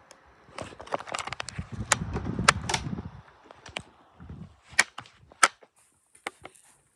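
Handling noise: a cluster of knocks and rumbling, then several separate sharp clicks about five seconds in.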